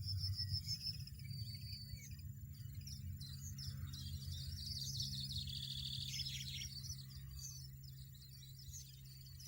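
European goldfinch twittering in quick chirps and trills over soft background music, the birdsong thinning out near the end.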